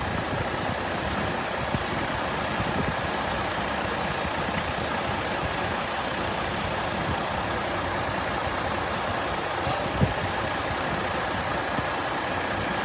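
Water gushing from a sheared-off fire hydrant in a steady rushing hiss, with a vehicle engine idling underneath. A single sharp thump about ten seconds in.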